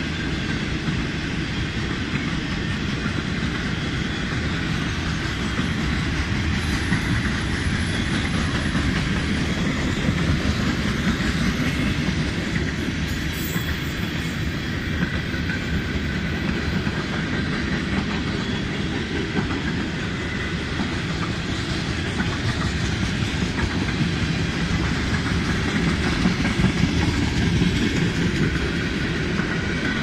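A train running on the rails: steady, continuous wheel-and-track noise that holds without a break.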